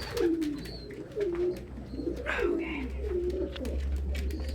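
Domestic pigeons cooing, short low falling coos following one another in a steady run, with a few light clicks among them.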